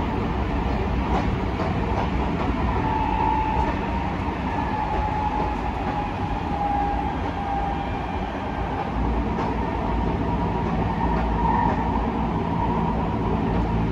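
Tokyo Metro 05 series commuter train running at speed, heard from inside the passenger car: a steady rumble of wheels on rail and running gear, with a faint whine that drifts slightly lower in pitch.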